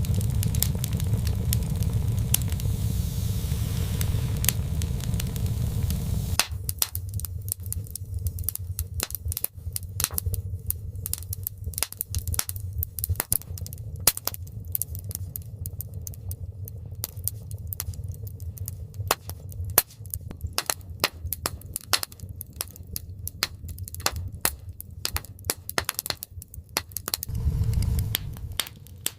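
Dense, irregular sharp crackles and clicks, over a low rumble that stops about six seconds in and returns briefly near the end.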